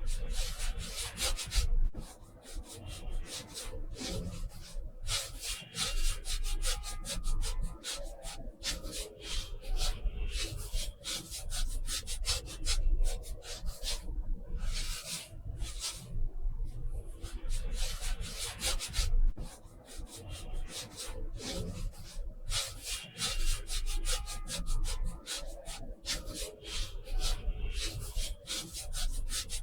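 Paintbrush strokes on watercolour paper: repeated scratchy rubbing, stroke after stroke with short pauses between them.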